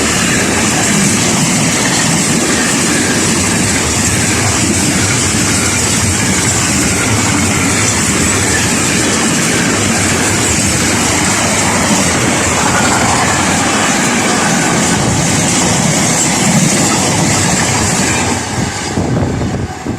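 A train passing close by, a loud steady rush of wheels on rails with some clickety-clack, which drops away sharply near the end as it clears.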